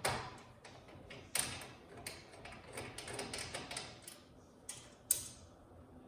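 Clicks and metallic knocks of thick steel TV wall-mount brackets being worked loose and handled, with sharp knocks at the start, about a second and a half in and near the end, and a run of lighter ticks in between.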